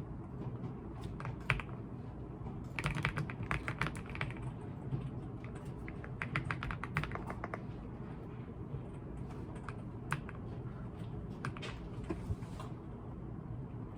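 Gaming keyboard being typed on: two bursts of rapid key clicks, then scattered single keystrokes, over a steady low room hum.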